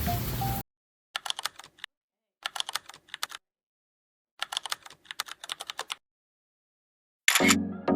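Three short runs of rapid keyboard-typing clicks, each a second or less, with dead silence between them. Music stops just before the first run and starts again near the end.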